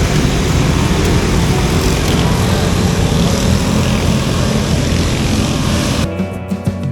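Engines of several racing riding lawn mowers running together as the race gets under way. About six seconds in the engine noise cuts off and music takes over.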